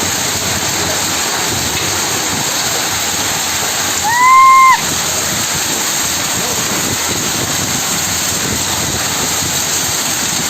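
Steady rain, an even hiss of falling water. About four seconds in comes a single short horn toot, under a second long, rising briefly then held; it is the loudest sound.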